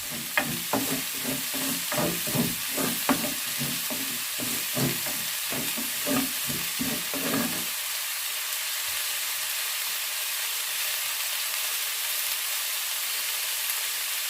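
Onion, bell peppers, garlic and ginger sizzling in hot oil while a spatula stirs and knocks against the pan; the stirring knocks stop about eight seconds in, leaving only a steady sizzle.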